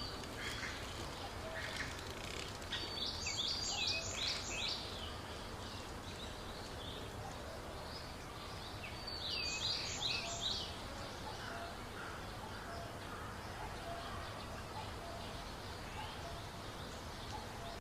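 Outdoor ambience with a steady background hiss and a bird calling twice, about three seconds in and again about nine seconds in, each time a quick run of five or six high notes.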